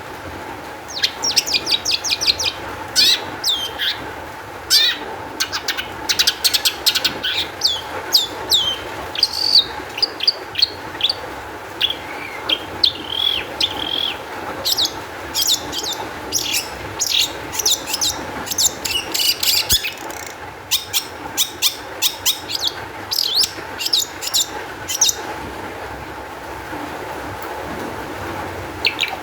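Long-tailed shrike (cendet) singing an excited, rapid song of high chirps and quick downward-sweeping notes in bursts, pausing near the end, over a steady background hiss.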